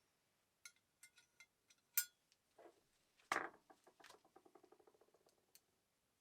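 Small metal parts clinking lightly on a workbench: a few scattered chinks, then a sharper knock about three seconds in followed by a quick rattle that dies away.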